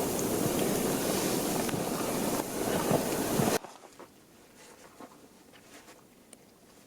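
Steady loud crunching and rustling of someone walking in snow while carrying firewood, with scattered knocks. It cuts off suddenly about three and a half seconds in, leaving only faint quiet with a few small ticks.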